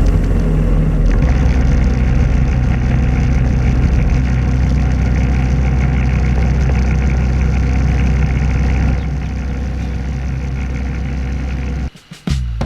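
Motorbike engine running steadily, a little quieter about nine seconds in, then stopping abruptly near the end.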